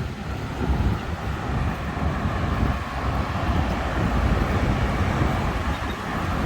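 Steady street traffic noise with a constant low rumble, heard from a moving bicycle.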